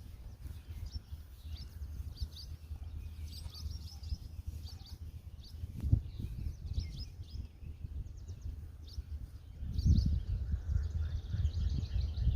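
Small birds chirping repeatedly over a low rumble, with a single knock about six seconds in. The rumble grows louder near the end.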